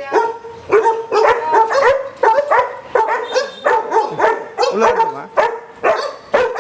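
Dogs barking in a rapid, unbroken run of sharp barks, two or three a second.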